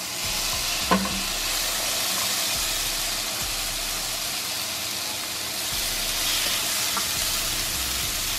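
Diced tomatoes sizzling steadily as they are scraped into hot oil with browning onions and flour in a frying pan and stirred with a silicone spatula.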